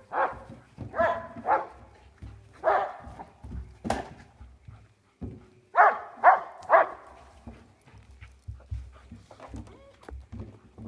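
Dogs barking in short bursts at a barrel: about seven barks in three clusters, with a sharp knock about four seconds in.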